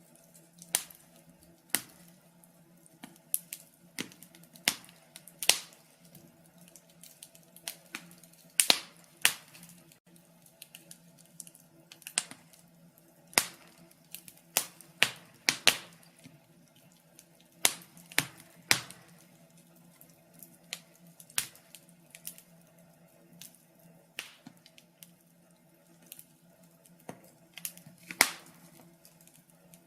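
Wood fire crackling in a fireplace: irregular sharp pops and snaps, a few of them louder, over a faint steady low hum.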